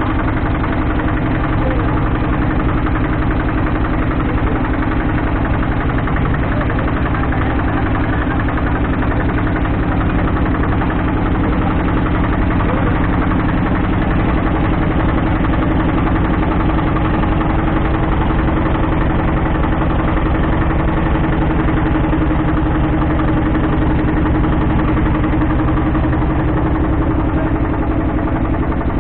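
Motorboat engine running steadily at a constant speed, a loud, unchanging hum heard from on board.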